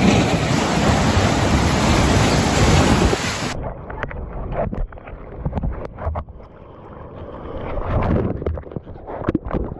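Ocean surf breaking and rushing water, with wind buffeting the camera's microphone. About a third of the way in the sound turns suddenly muffled as the camera goes under the water, leaving dull churning water with scattered pops and bubbles, and a swell of rushing water again near the end.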